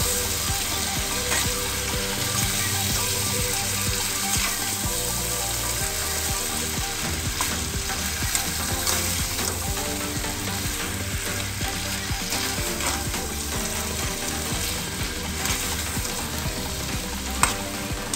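Boiled potato and capsicum pieces frying in oil and masala in a steel kadhai, sizzling steadily while a spatula stirs them, scraping and clicking against the pan. A sharp knock of the spatula on the pan comes near the end.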